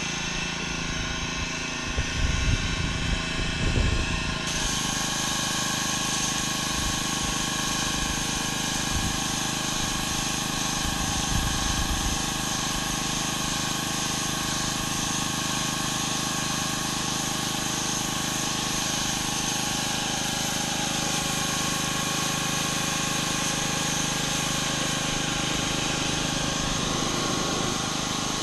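Gas-engine pressure washer running steadily, with the hiss of high-pressure water spraying concrete. A few louder knocks come about two to four seconds in, and the spray hiss grows brighter shortly after.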